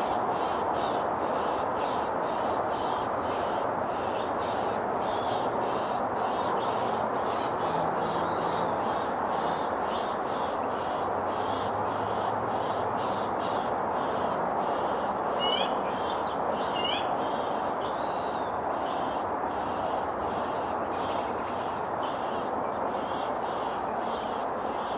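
Several birds chirping and calling over a steady rushing noise, with two louder calls that fall in pitch about fifteen and seventeen seconds in.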